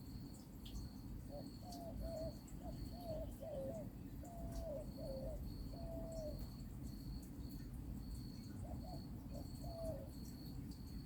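A dove cooing: low, wavering notes in a run of several phrases, then two more near the end. An insect chirps steadily at a high pitch, about twice a second.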